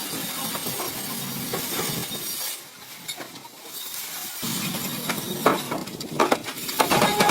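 Metalworking noise: a steady hiss, a short lull, then a run of sharp metallic clinks and knocks near the end.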